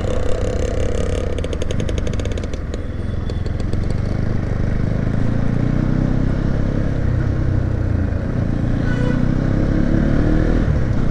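Motorcycle engine running while riding, with a rapid rattling in the first few seconds and the engine note rising about halfway through as it speeds up.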